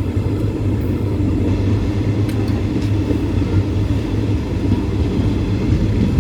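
Passenger train heard from on board: a steady, loud low rumble.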